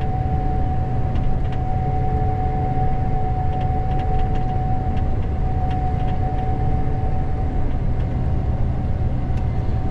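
Gleaner S98 combine heard from inside its cab while backing up: a steady low drone with a thin steady whine over it that fades out about seven and a half seconds in.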